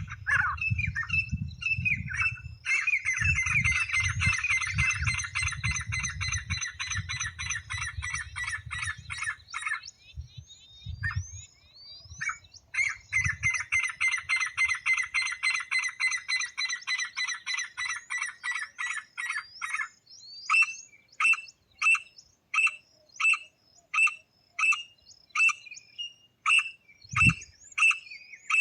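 Francolin (teetar) calling: long rapid series of ringing notes, then from about 20 seconds in a slower run of separate calls, a little more than one a second. A low rumble runs under the first ten seconds, and a single low thump comes near the end.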